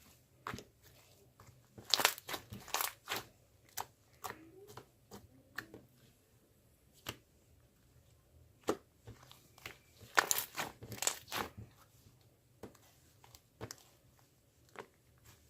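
Close-miked crinkling and crackling in irregular sharp crackles, with louder clusters about two seconds in and again around ten to eleven seconds in.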